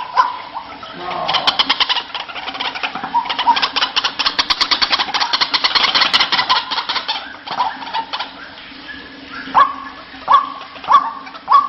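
White-breasted waterhen calling: a fast rattling run of clicks for several seconds, then, from about nine and a half seconds in, a string of short falling notes repeated about every two-thirds of a second.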